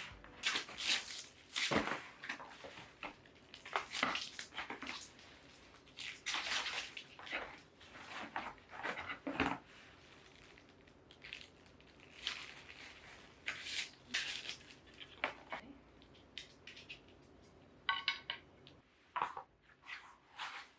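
Wooden battens and their packaging being handled: irregular knocks, light clinks and crinkling.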